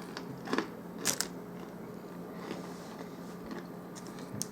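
A person chewing a mouthful of meat sandwich, with a few short wet mouth clicks and crunches, the loudest about a second in. A steady low hum sits underneath.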